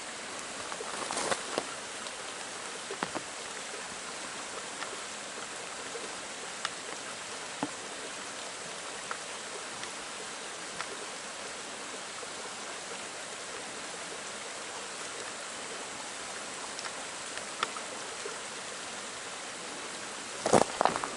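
Mountain stream flowing over rocks: a steady rushing hiss, with scattered light ticks and a short cluster of louder knocks near the end.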